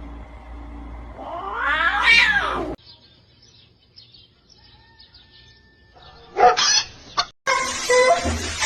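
A cat meowing loudly: one drawn-out yowl that rises and falls in pitch about two seconds in and cuts off abruptly, then a shorter loud cry past the middle.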